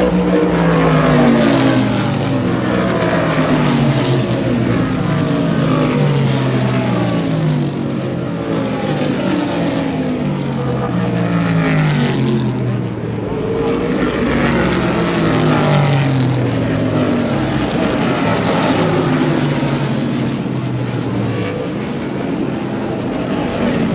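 A pack of vintage Trans Am race cars with V8 engines running at full throttle, passing one after another. Each engine note drops in pitch as it goes by.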